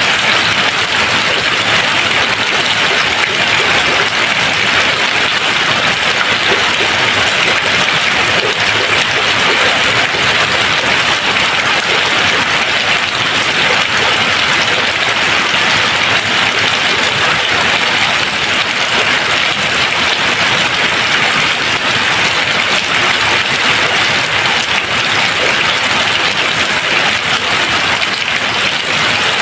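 Steady rain falling, an even hiss of countless drops with no thunder.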